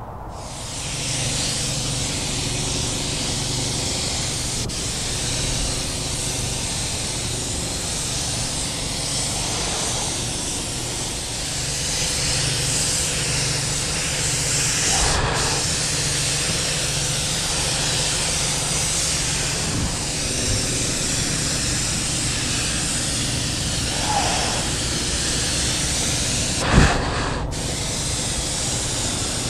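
Compressed-air paint spray gun hissing steadily as it lays down a light coat of automotive clear coat, the trigger let off briefly about halfway and again near the end. A steady low hum runs underneath, and a sharp knock sounds near the end.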